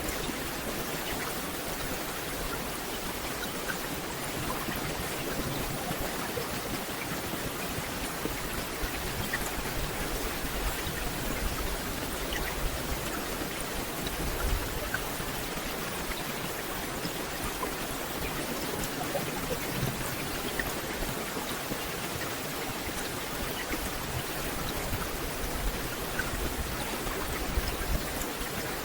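Steady rain falling, an even hiss with scattered raindrop ticks and a low rumble underneath.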